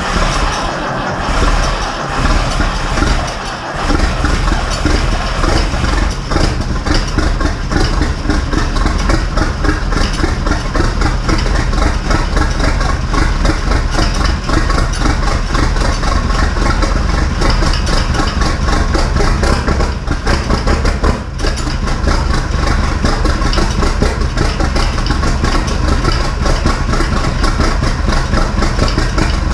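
Massey Ferguson 699 tractor's six-cylinder turbo diesel engine being cold-started: uneven for the first few seconds as it catches, then settling to a steady idle.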